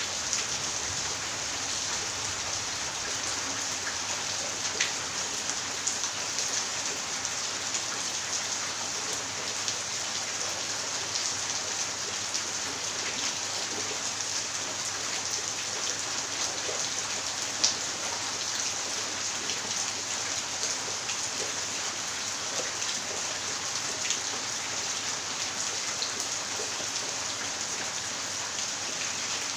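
Steady rain falling and pattering on surfaces, with scattered drop taps and one sharper tap a little past halfway.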